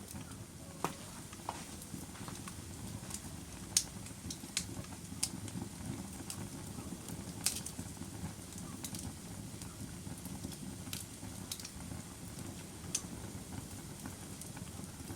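Log fire crackling in a fireplace: irregular sharp pops and snaps over a steady low rumble of burning, the loudest pops about four and seven and a half seconds in.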